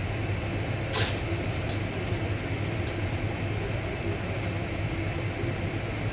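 Steady mechanical hum with a broad hiss, like a running fan or machine, with a sharp click about a second in and two faint ticks after it.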